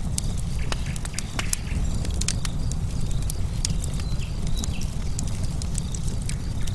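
Wood fire burning, logs crackling with sharp pops scattered irregularly over a steady low rumble of the flames.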